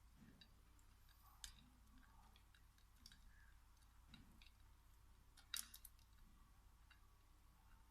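Near silence with a few faint, sharp clicks, the clearest about one and a half seconds in and again about five and a half seconds in.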